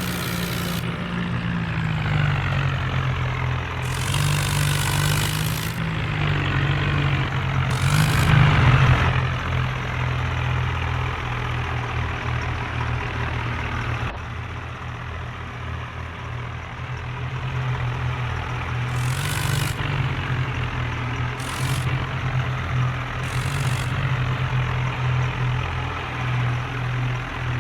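Tractor engine running steadily, revving up briefly about eight seconds in, with several short hissing noises over it.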